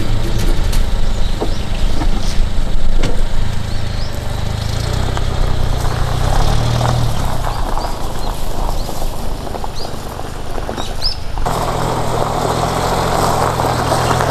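A car driving, with steady engine and road noise. The sound changes abruptly about eleven seconds in.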